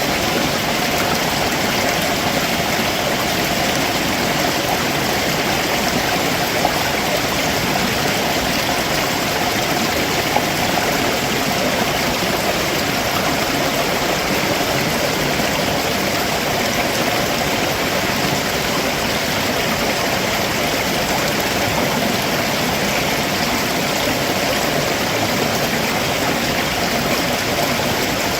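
Stream water running over rocks below a waterfall: a steady, unbroken rushing.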